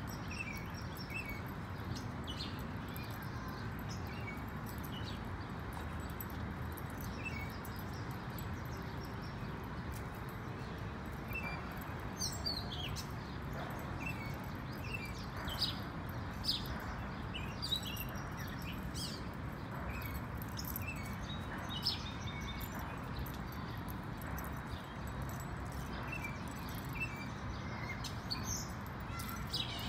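Steady outdoor background noise with short bird chirps coming and going, most of them in the middle stretch.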